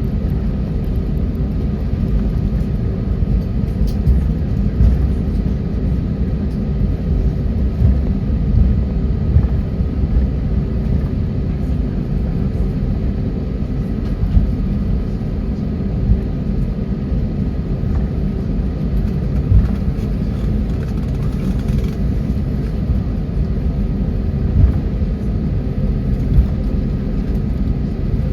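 Boeing 737 cabin noise from a window seat: the jet engines running at low, steady thrust under a steady low rumble, with a few constant hum tones and no spool-up, as during taxiing.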